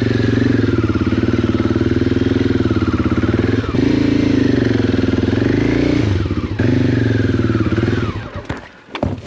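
Adventure motorcycle engine running under load on a rough dirt trail, its note wavering as the throttle is worked, with two brief drops about four and six and a half seconds in. Near the end the engine fades and a few sharp clattering knocks follow.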